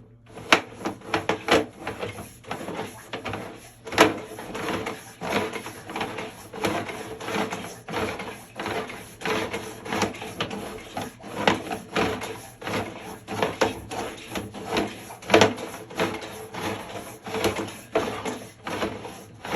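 Sewer inspection camera's push cable being fed down the line, the reel and cable clicking and knocking irregularly several times a second, over a faint steady electronic hum.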